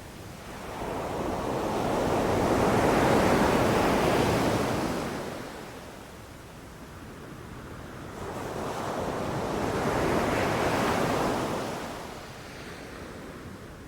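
Ocean surf on a beach: two waves break and wash in, each a rushing swell that builds over a couple of seconds and fades away, about seven seconds apart, with wind on the microphone.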